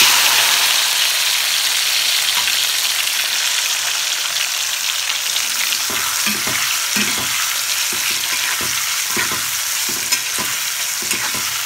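Sliced tomatoes hitting hot oil in an aluminium wok, setting off a loud sizzle at once that then carries on steadily as they fry. From about halfway through, stirring scrapes and knocks against the pan sound over the sizzle.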